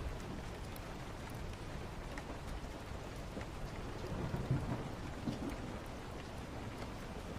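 Steady rain, with a low rumble of distant thunder about halfway through and scattered small ticks.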